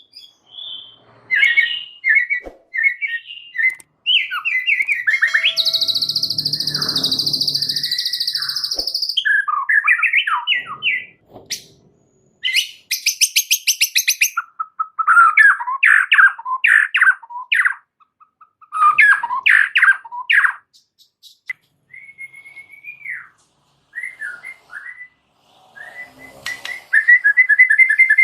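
White-rumped shama in full song: a loud, varied run of whistled slurs, fast trills and stuttered notes, with a long harsh buzzing phrase about four seconds in. Near the end it breaks into a fast, even trill.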